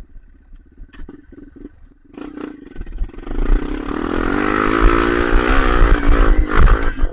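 Off-road dirt bike engine, low at first with a few knocks, then revving up hard about two seconds in and held at high, wavering revs.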